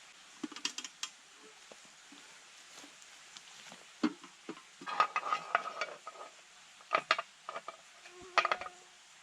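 Metal cookware and utensils clinking and scraping in a string of separate knocks, some leaving a short ringing tone, the busiest stretch about halfway through.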